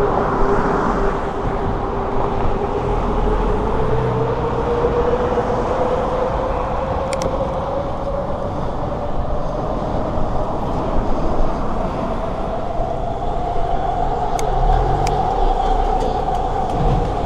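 Wind and road noise of a bicycle ride along a city street, with passing traffic, and a steady hum that slowly rises in pitch throughout. A few sharp clicks come about halfway in and again near the end.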